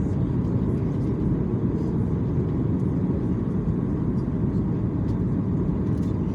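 Airliner cabin noise: a steady, loud, low rumble of the engines and airflow, with a faint steady hum above it.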